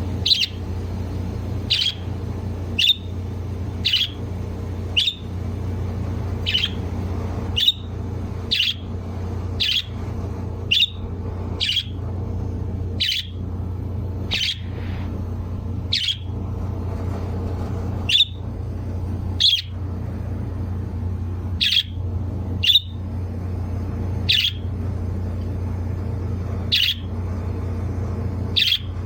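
A bird chirping over and over, a short sharp call every second or two, over a steady low hum.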